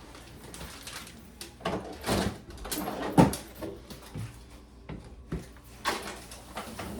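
Household handling sounds: a string of knocks and clatters, like drawers or cupboard doors being opened and shut and things being set down, with the sharpest knock about three seconds in.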